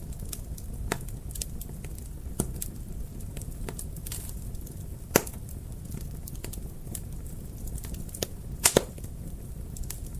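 Wood fire burning in a fireplace: a low steady rumble of flames with irregular crackles and pops, the sharpest about halfway through and a quick double pop near the end.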